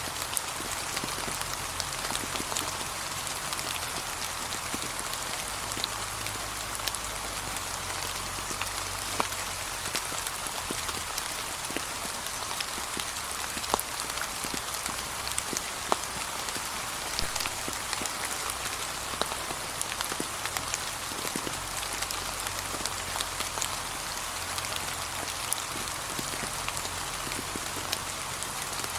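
Gentle, steady rain falling on fallen leaves, an even hiss scattered with many separate drop ticks, a few of them sharper than the rest.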